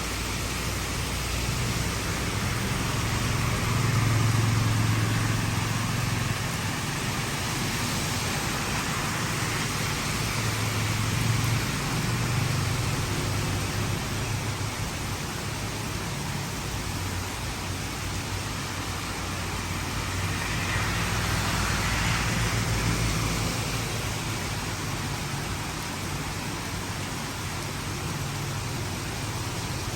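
Heavy rain falling steadily, with vehicles passing on a wet road: a low engine hum swells and fades about four seconds in, again around eleven seconds, and once more past twenty seconds.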